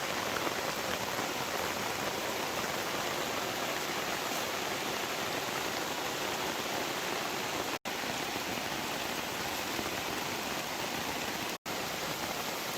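Steady hiss of rain falling, even and unbroken apart from two instant dropouts about eight and twelve seconds in.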